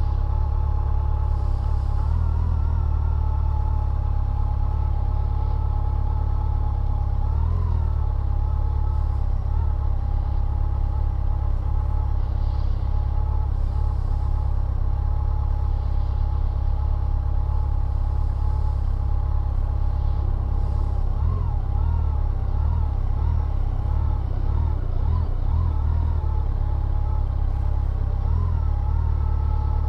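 Motorcycle engine idling steadily, its pitch rising briefly a few times as it creeps forward in slow traffic.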